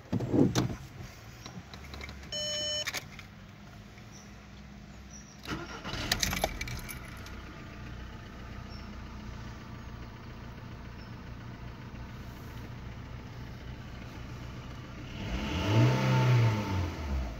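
Skoda Fabia 1.4 16-valve four-cylinder petrol engine being started: a sharp knock, a short electronic beep, then the starter cranks and the engine catches about five and a half seconds in. It settles to a steady idle and near the end is revved up once and back down.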